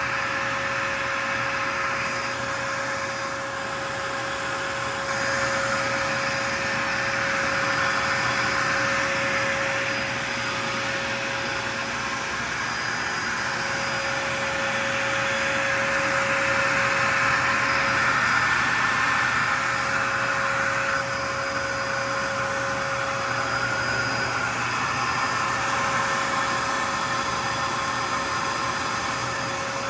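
Fantom Lightning cyclonic canister vacuum cleaner running steadily: rushing air over a steady motor whine, its loudness swelling and easing slightly a few times.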